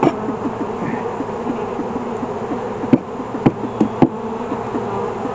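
Honeybees buzzing around an open hive, a dense drone with individual bees zipping past close by. A few sharp knocks of hive frames being handled cut through it about three to four seconds in.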